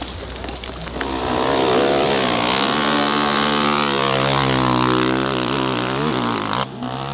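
Dirt bike engine running at high revs under load, holding a steady high pitch with a brief waver, then cutting off suddenly near the end.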